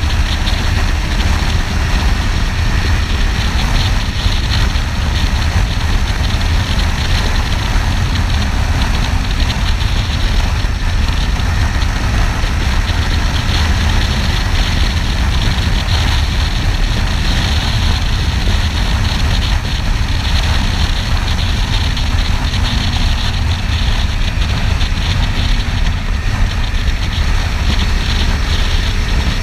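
Kawasaki Ninja 300's parallel-twin engine running steadily under way, under a heavy, steady rumble of wind on the camera microphone.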